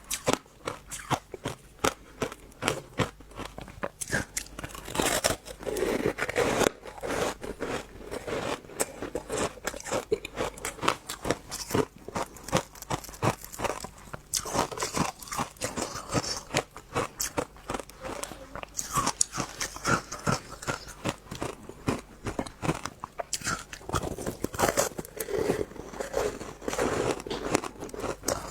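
Passion fruit being chewed close to the microphone: a dense, irregular run of small crunches and clicks as the pulp and seeds are bitten.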